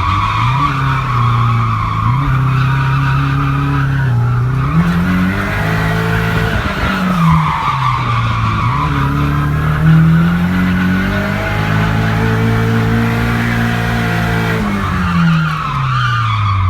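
Nissan S13 drift car's turbocharged SR20DET four-cylinder revving up and down through a drift, with tyre squeal throughout. The engine pitch drops away near the end as the car slows.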